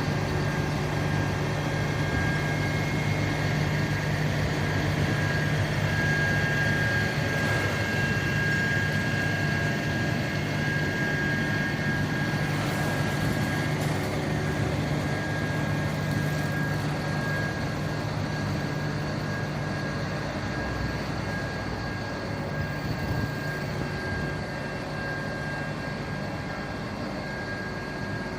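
A large engine running steadily with a thin, high steady whine over it; the low part of the hum drops away about two-thirds of the way through and comes back.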